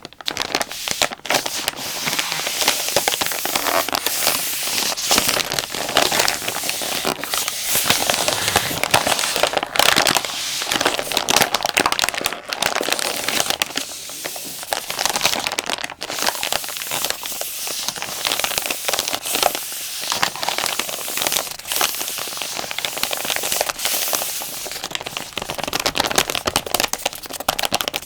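Plastic wet wipes pack crinkling and crackling as it is squeezed and handled, a dense run of sharp crackles.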